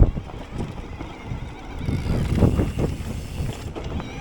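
Mountain bike ridden over rough trail ground: tyres rumbling, with repeated knocks and rattles from the bike, a sharp knock at the start, and wind buffeting the microphone.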